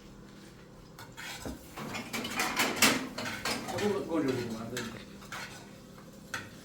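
Dishes and metal cutlery clinking and clattering in a series of sharp knocks and clinks, busiest in the middle and thinning out near the end.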